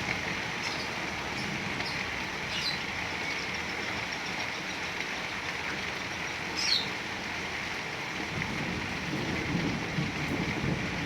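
Heavy rain falling steadily, with a few brief high bird chirps through it, the clearest about seven seconds in. A low rumble builds under the rain toward the end.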